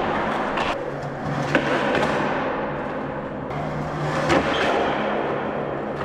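Skateboard wheels rolling over concrete, with several sharp clacks of the board hitting the ground, the loudest about a second and a half in and again just past four seconds.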